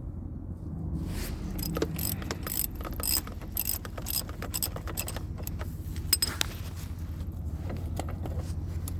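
Ratchet wrench clicking in quick runs as it turns the threaded rods of a coil spring compressor, letting a strut's coil spring decompress. A steady low hum underlies it.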